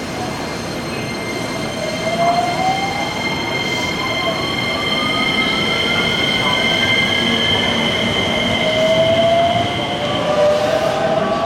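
Electric commuter train pulling out of the station: its motor whine rises steadily in pitch as it accelerates, over steady high ringing tones and the rumble of running gear. A second rising whine starts near the end.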